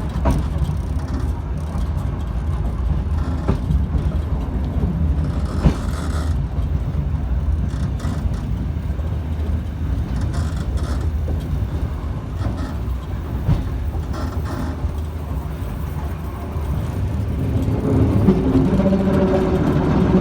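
Old excursion train running with a steady low rumble and a few scattered knocks. A steady pitched hum comes in near the end.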